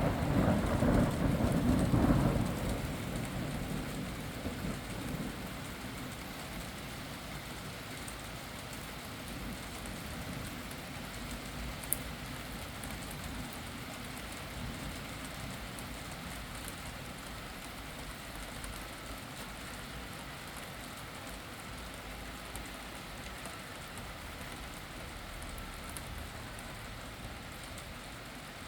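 Thunder rumbling for the first few seconds, then fading into steady rain falling. There is a single sharp click near the middle.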